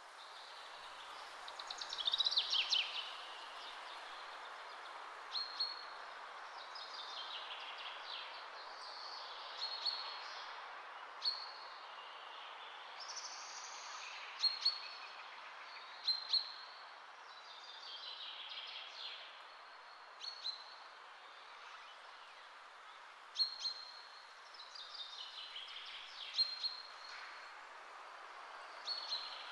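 Birds chirping and calling: quick sweeping chirps and a short high note repeated every second or two, with a louder burst of chirping about two seconds in, over a steady hiss.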